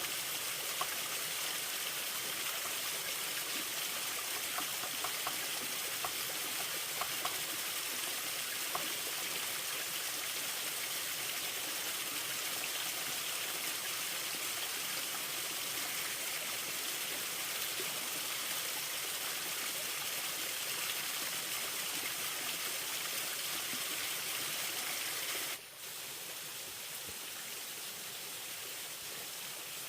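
Steady rush of running water, with a few faint ticks in the first several seconds. About 25 s in it cuts to a similar, slightly quieter water sound.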